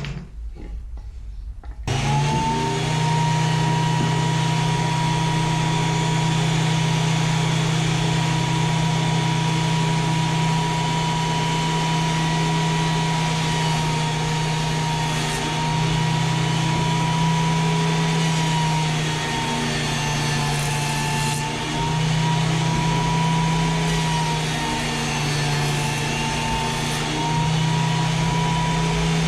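WEN 8-inch spiral-cutterhead jointer switched on about two seconds in, quickly spinning up to a steady, loud whine over a hum. Its pitch sags slightly a few times, as when boards are fed across the cutterhead.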